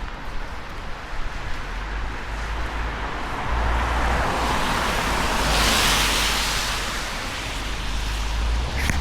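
A vehicle passes on a wet road: tyre hiss swells to a peak and fades over a few seconds, over a steady low rumble of wind on the microphone.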